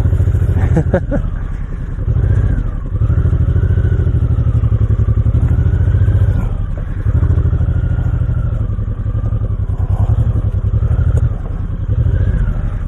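Honda VTX1800C's big V-twin engine pulling the cruiser slowly along a dirt track, its throttle easing off and picking up again about three times.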